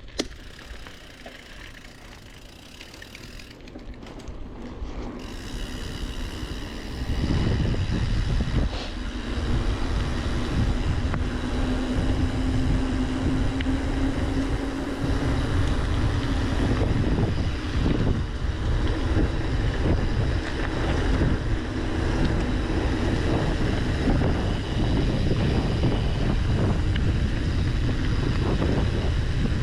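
Wind buffeting the microphone as a bicycle picks up speed downhill: a rushing noise that swells over the first seven seconds or so, then holds loud and steady.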